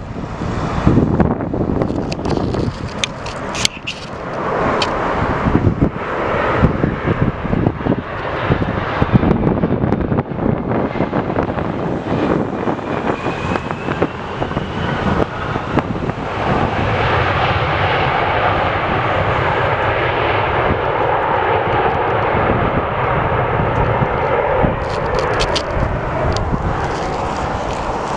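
Airliner engine noise mixed with strong wind buffeting the microphone: gusty, uneven rumble at first, then the aircraft's engine roar grows steadier and fuller from about halfway through.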